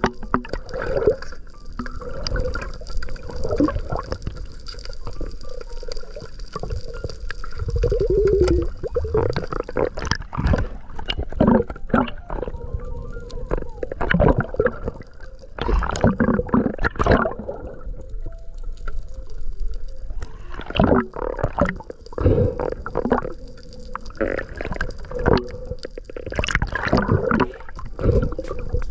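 Underwater water noise: gurgling and bubbling with many irregular pops and knocks over a low rumble.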